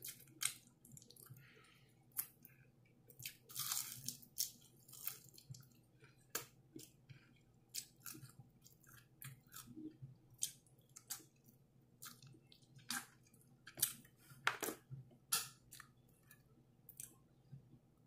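A person chewing fried chicken and pulling meat off the bone, with irregular wet mouth clicks and lip smacks, a few of them louder.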